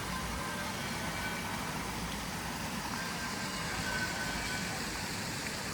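Street traffic: car engines running steadily nearby, a continuous low rumble under general city noise.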